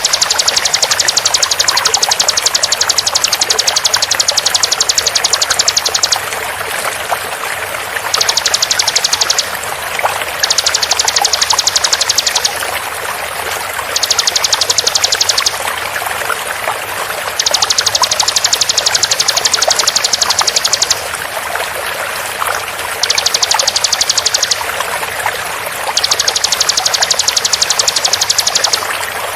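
Bar-winged prinia (ciblek) song in rapid, tightly packed high-pitched trills, seven bursts of one to six seconds with short pauses between. Under it runs a steady sound of flowing water, mixed together as a songbird-training (masteran) track.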